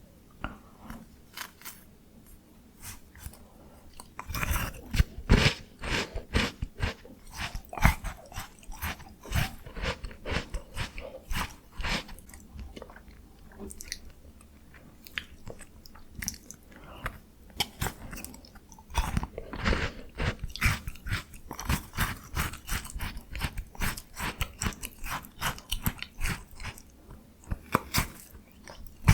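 Close-miked biting and crunching into a frozen Jaws Bar ice-cream bar, crisp cracking crunches with chewing. Sparse at first, thick runs of crunching start about four seconds in and again past the middle, with a quieter stretch between.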